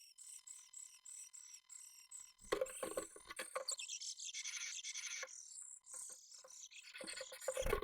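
Japanese tit in a nest box: quick, evenly repeated high chirps, then scratching and rustling, with a louder scraping knock near the end.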